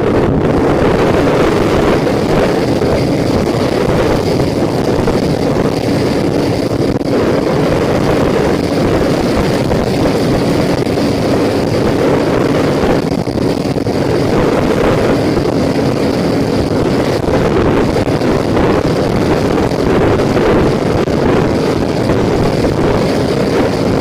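Wind rushing steadily over the microphone of a camera on a moving motorcycle, with the bike's engine running steadily underneath.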